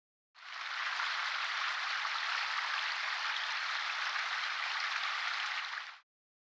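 A steady, even hiss, like rain or wind-blown snow, fading in just after the start and cutting off suddenly near the end.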